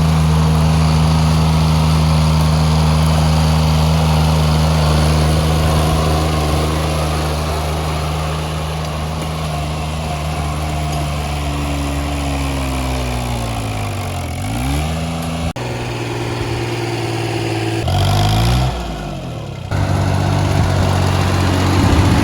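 Mini tractor's diesel engine running steadily, then dropping in pitch as it slows, about thirteen seconds in; the sound changes abruptly a couple of times near the end.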